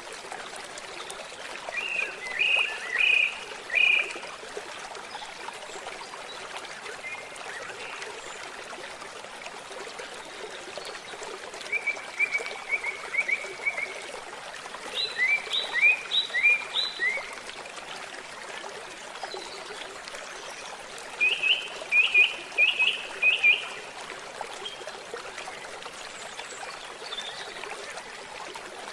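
Forest stream trickling and babbling steadily. A bird calls in four short series of quick repeated notes, about a second apart.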